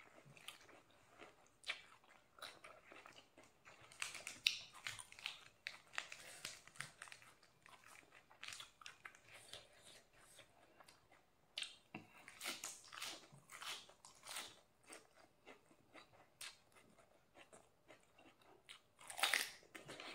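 Raw lettuce and cucumber being bitten and chewed close up, in clusters of crisp crunches with quieter chewing between. The loudest crunch comes near the end.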